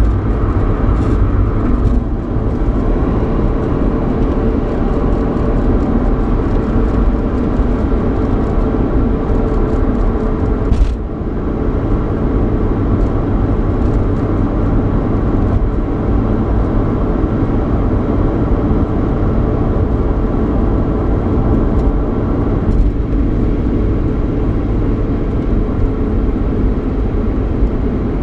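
Cabin noise inside a 3.8-litre V6 Mustang on the move: steady road and tyre rumble with engine hum. A single sharp click about eleven seconds in, and a fainter one later.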